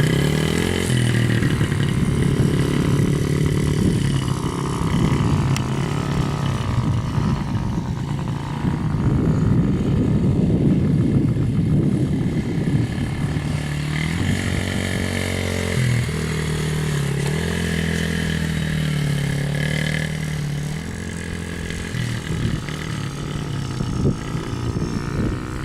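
Small kid's dirt bike engine running around a motocross track, its pitch rising and falling again and again as the rider throttles up and eases off through the lap.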